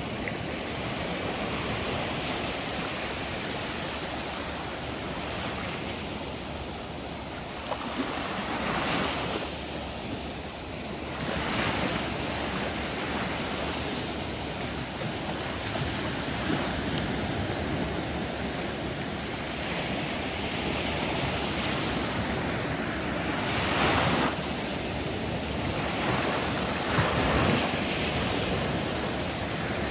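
Sea waves washing in continuously, with louder surges of breaking surf every few seconds, over wind.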